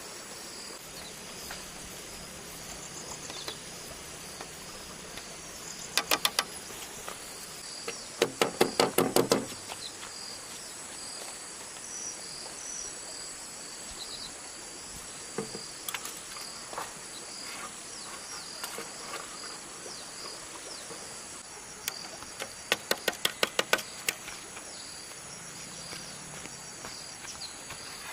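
Insects shrilling steadily in high, even tones, broken three times by short runs of quick, sharp clicks or knocks, the longest and loudest about eight seconds in.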